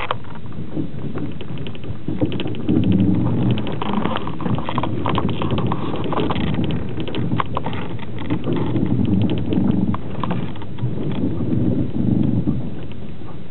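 Passenger train's wheels clicking and clattering irregularly over the track, over a steady low rumble of the moving carriage, heard from inside a platzkart sleeper car.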